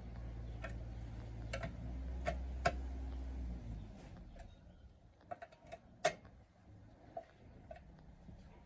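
Scattered light clicks and taps, about one or two a second with a sharper one about six seconds in, over a low steady hum that stops a little under four seconds in.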